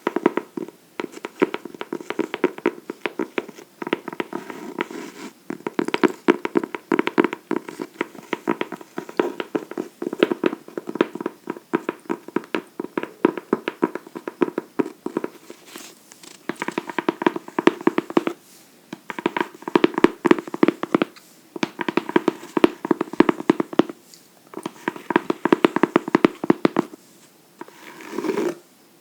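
Fingernails tapping and scratching rapidly on a hardcover book, many hollow clicks a second, in bursts of a few seconds with brief pauses between. A softer brushing sound comes near the end.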